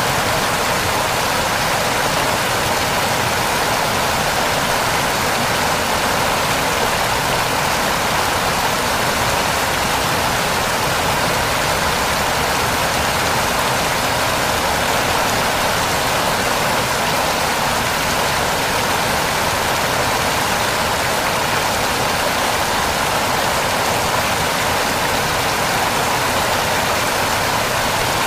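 A waterfall rushing: a steady, unbroken spray of water noise with no change in level.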